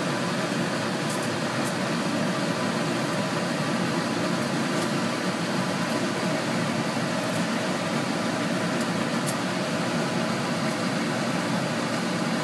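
Steady fan-like whooshing hum at an even level, with faint scattered ticks.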